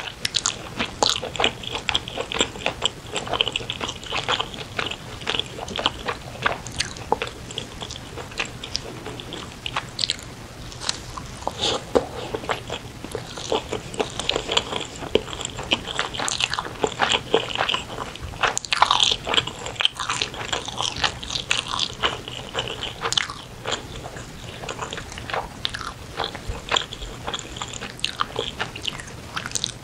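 Close-miked eating of spicy braised chicken: chewing and biting with many short, wet mouth clicks and smacks, coming thick and fast.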